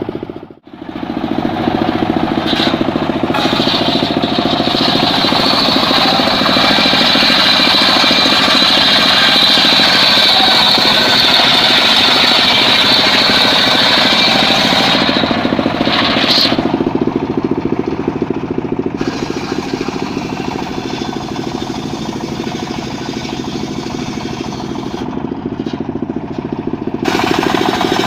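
Engine-driven circular sawmill running and sawing mahogany. A high cutting whine joins the engine about three seconds in and lasts until about sixteen seconds, the saw then runs more lightly, and it loads up again near the end.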